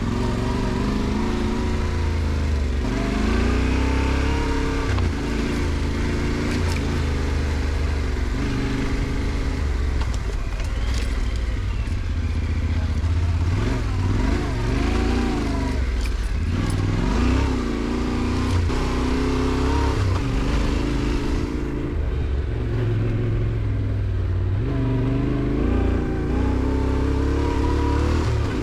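Yamaha Ténéré 700 Rally's 689 cc parallel-twin engine running under way, its pitch rising and falling again and again with throttle and gear changes.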